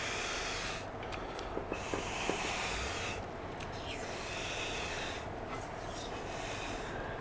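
Electrical tape being pulled off the roll and wound around wire leads: a run of hissing pulls, each a second or two long, with a few light clicks about two seconds in, over a steady faint hum.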